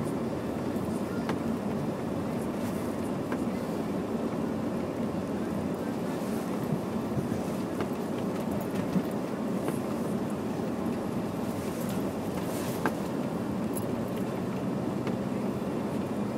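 Honda Prelude driving through snow on studded snow tyres: a steady drone of engine and tyre noise, with a few faint clicks.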